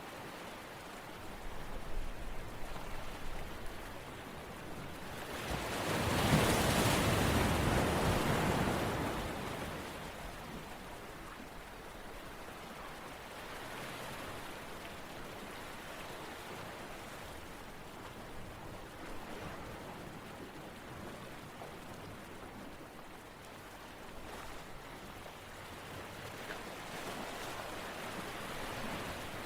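Steady rain ambience, an even hiss of falling rain, with a louder full-range swell lasting a few seconds about six seconds in.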